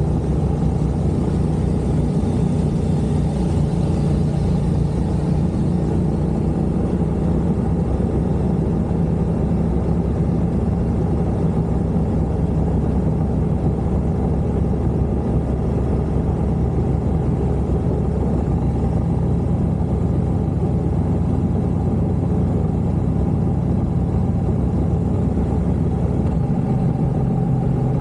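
A vehicle engine drones steadily at an even pitch with no revving, as when cruising at a constant speed.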